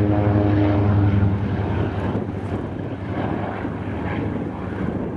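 Propeller aircraft's piston engine drone, a steady pitch that fades away about a second and a half in, leaving an even rushing noise.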